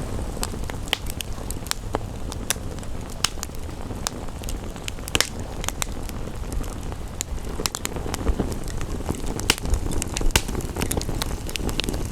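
Wood fire crackling in a fireplace, with sharp, irregular pops over a steady low rushing sound.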